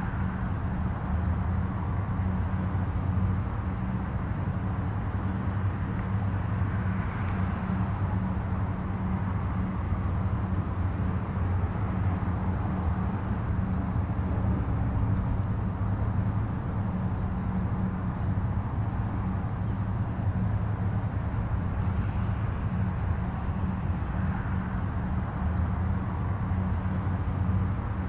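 Distant highway traffic: a steady low rumble of tyres and engines, with gentle swells as single vehicles pass now and then.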